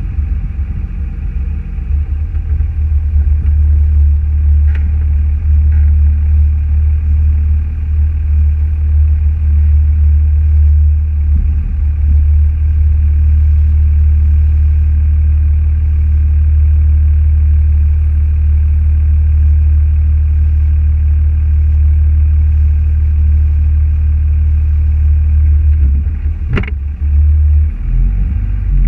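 Steady low rumble of a car's engine and road noise, with a single sharp click near the end.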